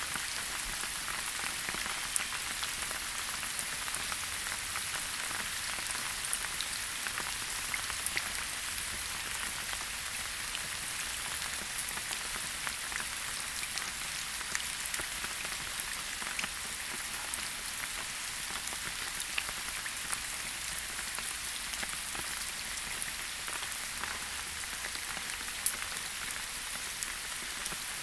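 Steady rain falling in a forest, an even hiss with individual drops ticking sharply here and there.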